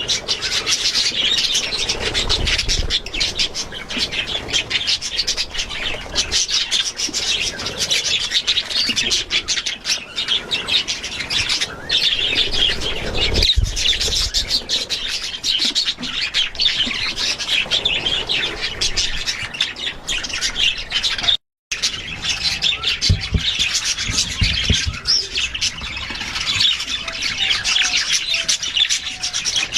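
Budgerigars chattering continuously in fast, dense chirps and squawks, with one brief complete cut about two-thirds of the way through.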